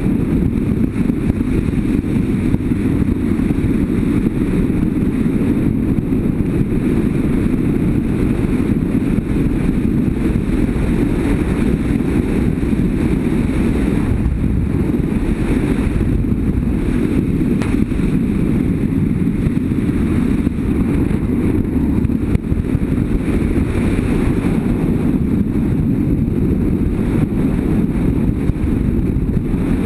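BMW F800GS motorcycle riding at a steady speed: the engine runs evenly under the wind rushing over the microphone, with no change in pace.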